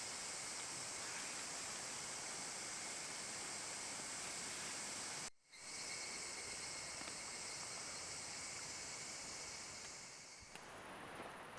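Steady high-pitched insect chorus with a constant hiss. It cuts out briefly about five seconds in, and near the end gives way to a quieter, different ambience.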